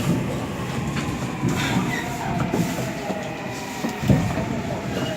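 Seoul Metro Line 7 subway train running on the track: steady wheel and running noise with a faint whine from the traction motors and a few light knocks from the rails.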